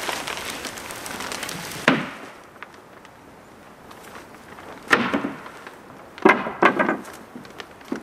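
A rushing hiss ending in a sharp knock about two seconds in, then a few hard knocks and thumps, one about five seconds in and two close together just after six seconds.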